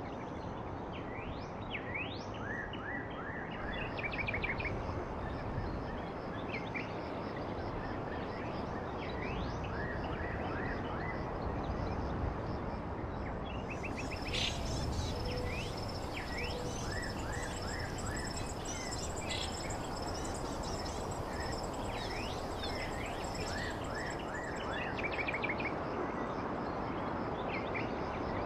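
Several small birds chirping, with quick short chirps and runs of notes over a steady background hiss. From about halfway in, a high, thin, pulsing trill runs for several seconds.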